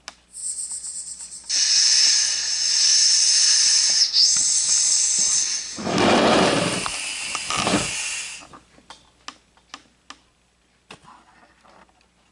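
Loud hissing in three stretches: a short high hiss, then a long steady hiss lasting about four seconds, then a fuller, rougher hiss of about two seconds, followed by a few faint clicks.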